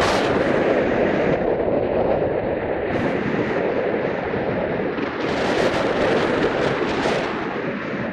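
Heavy wind buffeting the microphone, a loud, rough rush that surges and eases without a break.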